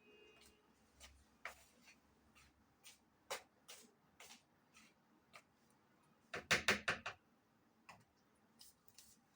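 Kitchen utensils and containers handled while preparing ingredients: scattered light clicks and taps, then a quick run of about half a dozen sharp knocks a little past halfway.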